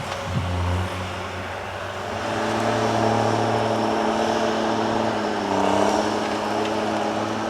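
Diesel engine of an HSM 208 forestry tractor running, its revs rising about two seconds in and dipping briefly, then picking up again, near six seconds.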